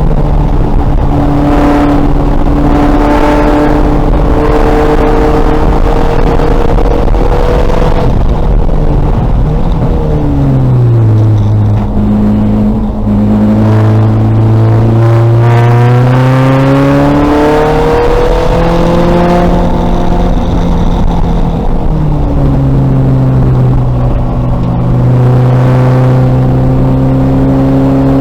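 2000 VW Golf race car's engine at racing speed, revving up and down through the rev range. Its pitch falls steeply about ten seconds in and again about twenty-two seconds in, then climbs again each time.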